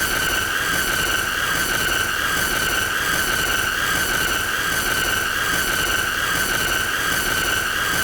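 A continuous high-pitched squealing tone with overtones, held at one pitch with a slight waver, over a rough, noisy low rumble.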